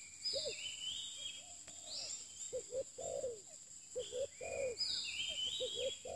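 Spotted dove cooing: repeated phrases of quick short notes ending in a longer falling coo, about every second and a half. Higher chirping from other birds and a steady high whine run over it.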